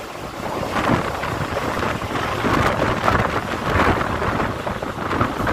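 Mumbai suburban local train running, a continuous rush of wheel and track noise with wind buffeting the microphone at the open doorway. It grows slightly louder about a second in.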